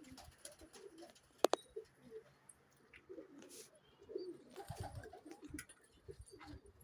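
Domestic pigeons cooing, several low warbling coos overlapping one another, with a sharp double click about a second and a half in.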